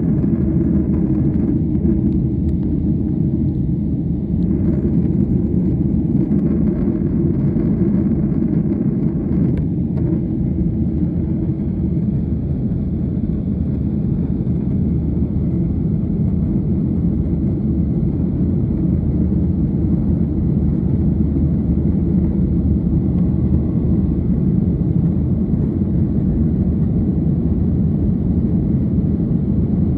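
Steady low rumble of a jet airliner heard from inside the passenger cabin: engine and airflow noise that stays even throughout.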